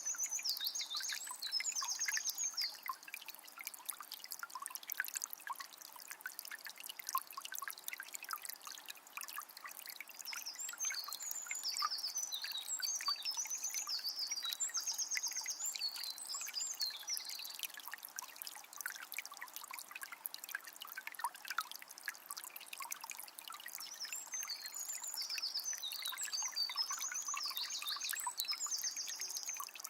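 Water from a small spring trickling and splashing steadily. A songbird sings quick, high, warbling phrases in three spells: at the start, in the middle and near the end.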